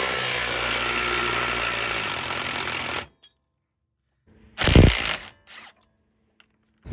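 Power tool, an impact wrench, running steadily for about three seconds while undoing a front radius arm bolt on the suspension. After it stops, there is one short, loud burst a little over four and a half seconds in.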